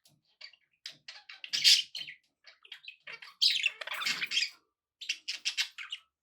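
Pet budgerigars chattering: quick high chirps and warbles broken by louder, harsher calls, one near the middle and a longer run a little later, with a brief lull before the chirping starts again.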